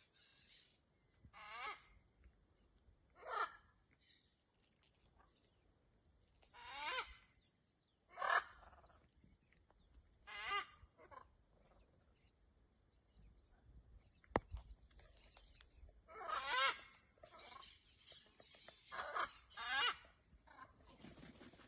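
Macaws squawking: loud, harsh calls about every two seconds, coming more thickly near the end.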